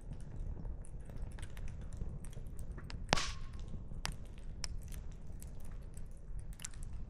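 Wood campfire crackling, with many small sharp pops over a steady low rumble of the burning fire. One louder pop about three seconds in, with a brief ring after it.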